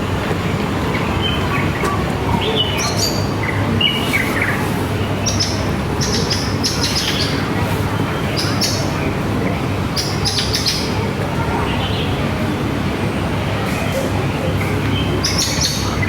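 Small birds chirping off and on, with a few short falling whistles, over a steady low background noise.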